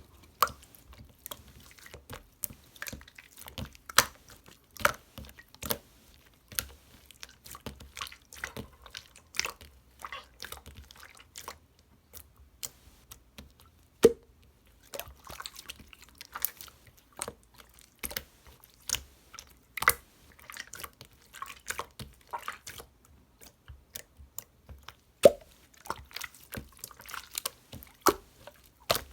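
Slime being squeezed and poked by hand, giving an irregular run of wet, sticky clicks and small pops, with a few louder pops.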